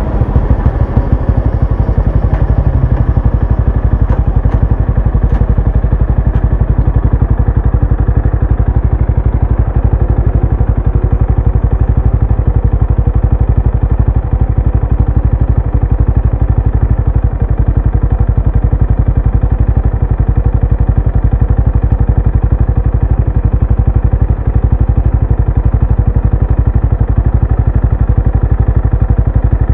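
Exhaust note of a Benelli Imperiale 400's single-cylinder engine, running at a steady, even pace while the bike is ridden.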